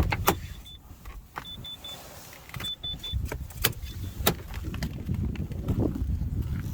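A car's warning chime beeping in quick sets of three high pips, with several sharp clicks and knocks of the car being stopped and left, over a low rumble.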